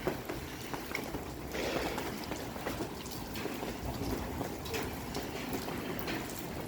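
Steady rain falling on a wet street, an even hiss with faint scattered taps.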